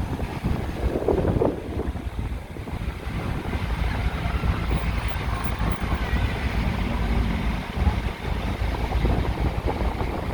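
Wind buffeting the microphone, heard as a steady low rumble with uneven swells.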